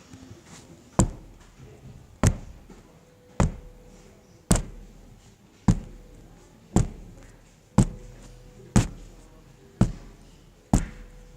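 Slow, even knocking on a hard surface: ten sharp knocks about a second apart, the knock at the window in the story.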